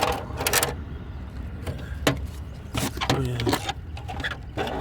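Several sharp knocks and clatters as a car's wheel-well guard is pushed and fitted back into place.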